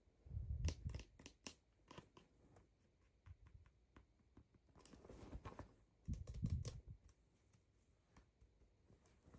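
Hands unboxing small toy packaging: scattered light clicks and soft thumps, with a brief crinkle of plastic or paper about five seconds in.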